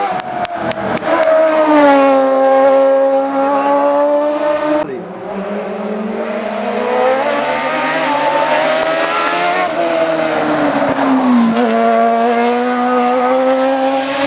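Racing car engines at full throttle on a hillclimb, revving up and dropping in pitch through gear changes and braking, with a sudden change about five seconds in as one car gives way to another.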